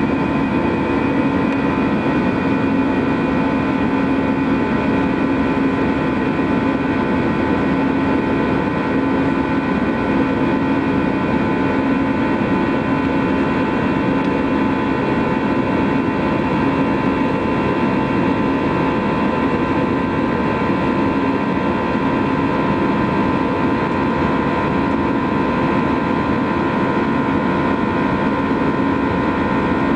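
Airbus A321 jet engines running steadily at high thrust in the climb after takeoff. A constant drone with a low hum and higher steady whining tones.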